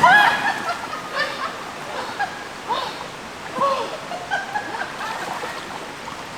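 River water running steadily, with splashing as a person wades into icy cold water, and short breathy vocal sounds.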